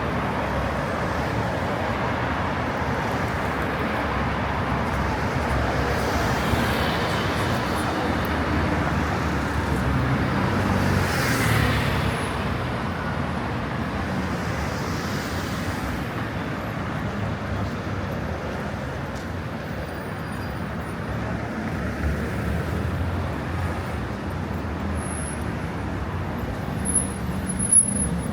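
Busy city street traffic: a continuous hum of car and bus engines and tyres passing, swelling a little about halfway through, with a few short, sharp loud sounds near the end.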